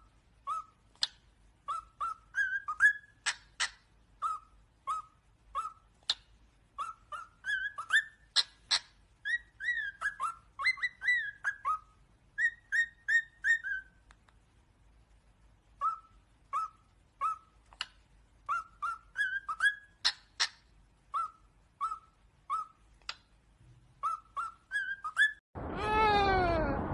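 A parrot whistling a long run of short chirping notes, several a second, some sliding upward, with a pause of a couple of seconds midway. Near the end comes a louder, longer swooping sound.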